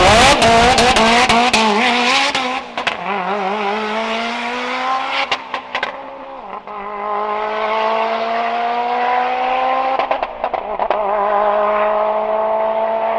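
A car accelerating hard down a drag strip, its engine pitch climbing steadily in each gear, with upshifts about two and a half, six and a half and ten and a half seconds in. Loudest at the start.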